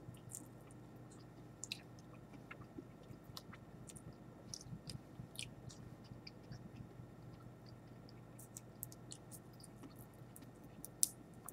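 Faint, scattered crunching and clicking of someone chewing a piece of dehydrated giant water bug (Lethocerus indicus) meat and shell, with one louder click near the end.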